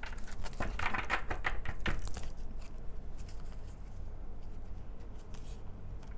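Tarot cards being shuffled and handled: a quick run of papery clicks over the first two seconds, then a few scattered ones, over a steady low hum.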